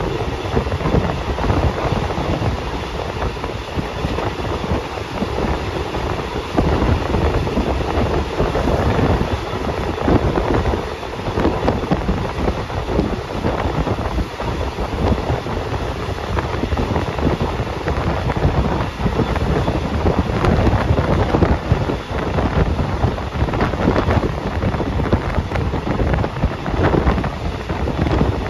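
Passenger train running along the track: a steady rumble of wheels on the rails, with wind on the microphone.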